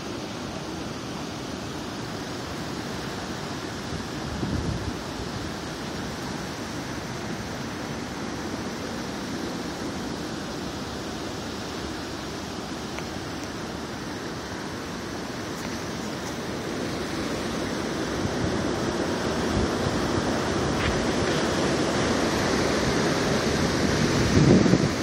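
Hurricane Sandy's wind and surf: a steady rushing noise that builds louder through the second half, with brief low buffets about four seconds in and again just before the end.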